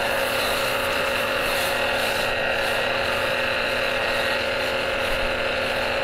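A steady mechanical running noise with a constant whine, even in level throughout.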